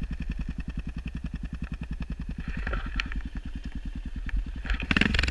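Dirt bike engine idling with a steady, even low putter. A short, louder burst of noise comes near the end.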